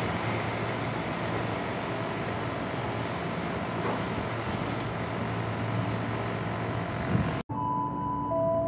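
Steady rumble and rail noise of a train running along the line at the station, with a faint high whine in the middle. About seven seconds in, the sound cuts off abruptly and sustained bell-like chime tones begin.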